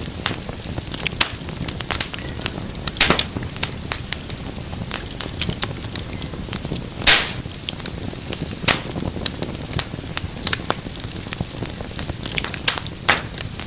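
Fireplace fire crackling, with irregular sharp pops and snaps over a low steady rumble of flames. The loudest pop comes about halfway through.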